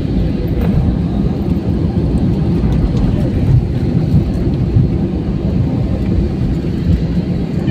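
Loud, unbroken low rumble of an Airbus A320 landing, heard from inside the cabin.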